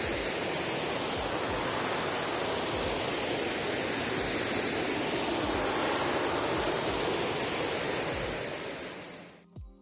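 Steady roar of rushing water, with occasional low thumps on the microphone, fading out near the end as background music comes in.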